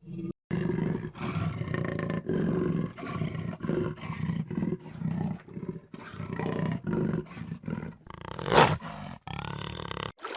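A big cat growling and roaring in a run of short, repeated calls, two or three a second. Near the end there is one louder call, followed by a different clip.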